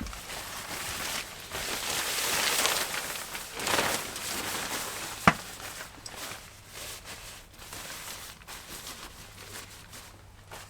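A tarp rustling and crinkling as it is fitted over a doorway, with one sharp knock about five seconds in, then quieter rustling.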